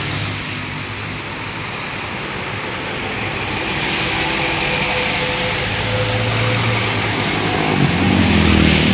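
Road traffic on a rain-wet road: a heavy vehicle's engine hum with tyre hiss and spray that grows louder about four seconds in and peaks near the end as it passes close.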